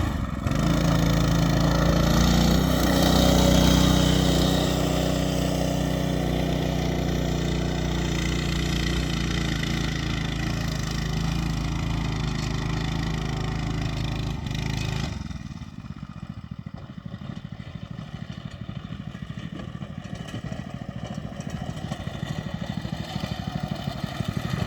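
Coleman B200 mini bike's small single-cylinder engine running hard and steady under load on a steep hill climb. About fifteen seconds in it drops suddenly to a quieter, pulsing idle: the bike cannot make the hill on its own.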